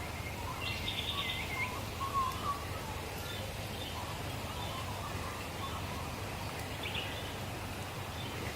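Outdoor ambience with birds calling: a few short chirping calls come and go over a steady low background.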